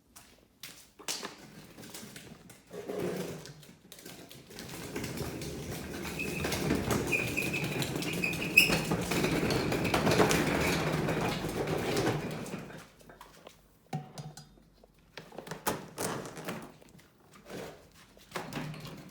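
Clicks and knocks from a vacuum cleaner being handled and taken apart, with a steadier rasping stretch of several seconds in the middle.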